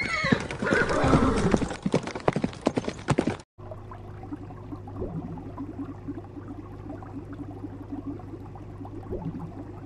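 A horse's whinny trailing off, then a run of sharp hoof clops. At about three and a half seconds the sound cuts to a quieter steady low hum with faint bubbling from an aquarium's air bubbles.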